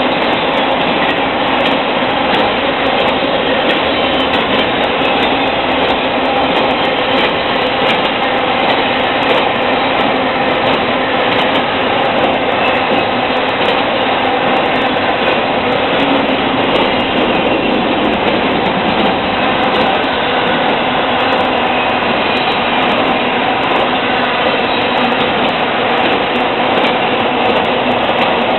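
Long intermodal freight train of trailers on flatcars rolling past close by: a loud, steady noise of wheels and cars running over the rails.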